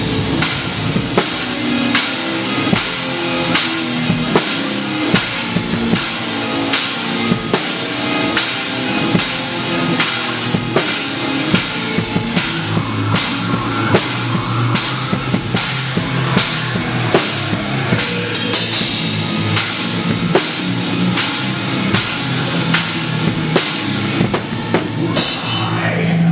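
Live heavy rock band playing, picked up close to the drum kit: the drums dominate, with a hard hit falling about twice a second in a steady beat over the rest of the band.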